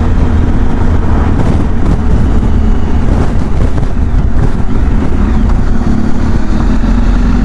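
Motorcycle engine running steadily under way, with wind rushing over the helmet-mounted microphone.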